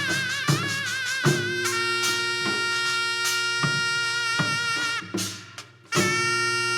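Korean traditional music for a Jindo drum dance. A reedy wind instrument plays a wavering melody that settles into long held notes over scattered drum strokes. The music drops away briefly about five seconds in and comes back strongly about a second later.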